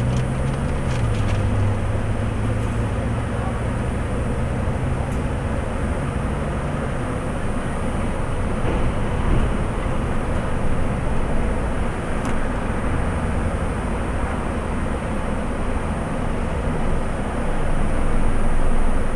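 Car idling: a steady rushing noise with a low engine hum that fades out about seven seconds in.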